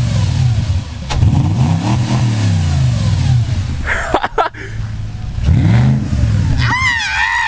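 Audi S4 V8 in an A4, revved several times through its exhaust, the pitch climbing and falling back with each blip.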